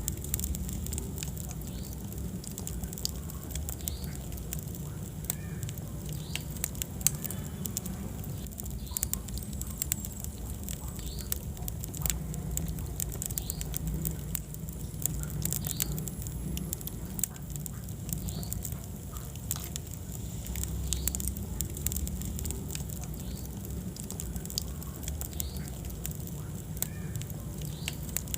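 Wood fire burning in a fireplace, crackling with frequent sharp, irregular pops over a low, steady rumble of flame.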